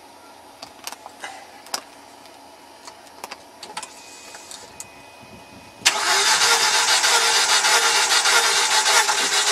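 Mercedes W210 engine being cranked on its starter for a compression test of the fourth cylinder, starting suddenly about six seconds in and running on steadily. Before it, a few light clicks.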